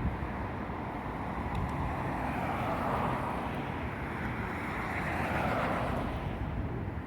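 Traffic going by on a city street, a broad steady rush that swells and fades over a few seconds, with wind buffeting the microphone.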